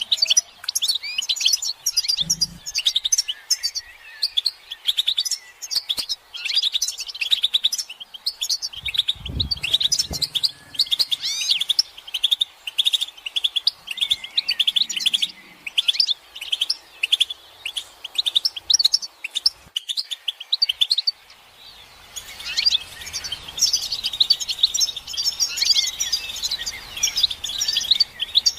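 Several European goldfinches twittering and calling in a dense, rapid chatter, thinning briefly about three quarters of the way through before picking up again. These are excited group mating and readiness calls.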